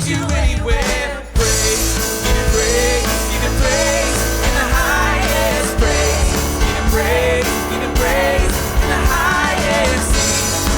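Live worship band playing a full arrangement with drums, bass, guitar and piano, a melody line weaving over it. About a second in the band drops away briefly, then crashes back in together.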